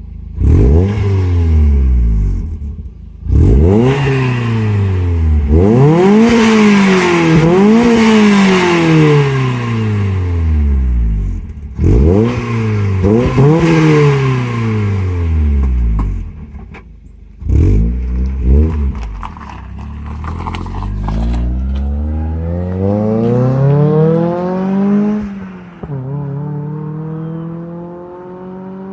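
Mazda Miata NB1 four-cylinder engine breathing through a Raceland header and a Magnaflow 15715 muffler with a 22-inch glasspack in place of the resonator, revved from idle in a series of quick blips, pitch shooting up and dropping back each time. Near the end it climbs more slowly to a higher rev, then falls back to a steady idle.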